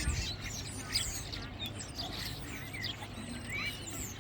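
Several songbirds chirping and calling at once, many short overlapping high chirps and quick pitch sweeps, over a low steady rumble.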